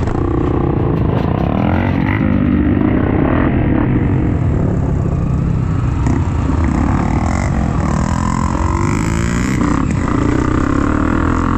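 Dirt bike engine running and revving up and down, its pitch rising and falling repeatedly.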